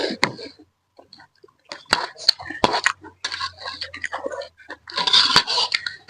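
Close-up eating sounds of noodles being chewed: a run of sharp wet mouth clicks and smacks, with a denser noisy stretch about five seconds in.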